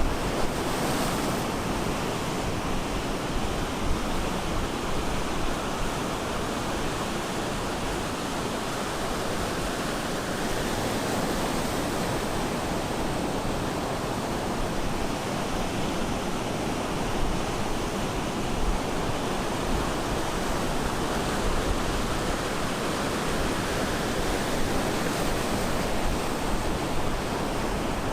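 Ocean surf breaking on a beach, a dense steady wash of rushing water that swells and eases slowly.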